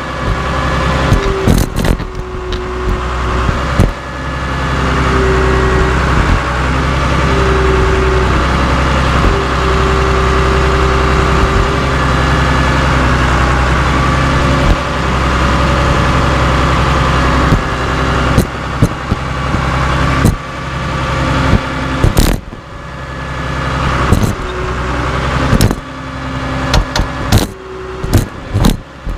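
Cat D3C LGP bulldozer's diesel engine running steadily, with a whine that comes and goes. In the second half, a run of sharp metal clanks and bangs as the dozer crushes scrap steel wheels.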